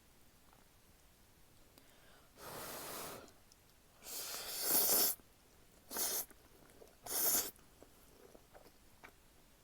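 Close-miked slurping of jjapaguri noodles: four slurps. The longest and loudest comes around the middle, and the last two are short.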